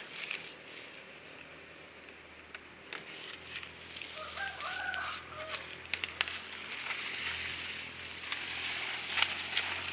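A rooster crowing once, faintly, about four seconds in, over rustling and scattered sharp clicks.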